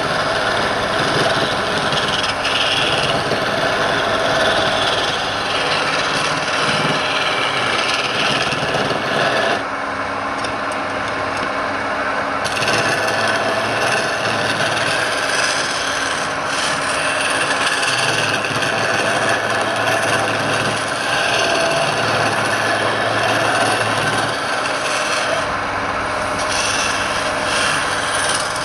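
Wood being turned on a lathe: a continuous rough scraping of steel or abrasive against the spinning wood, briefly easing off about ten seconds in.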